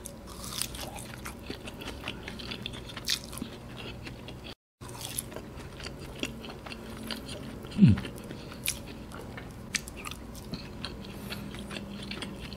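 Close-up mouth sounds of chewing a soft cheese-filled chicken ball: small wet clicks and smacks. About eight seconds in there is a short low sound that falls in pitch, and just under five seconds in the sound drops out for a moment.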